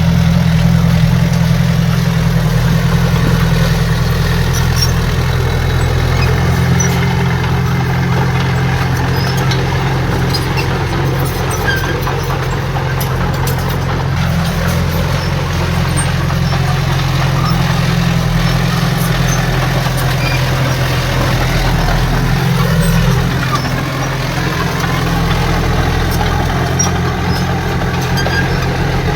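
Heavy earthmoving machine's diesel engine running steadily at low revs, a deep even drone, with a brief dip and shift in pitch a little over three-quarters of the way through.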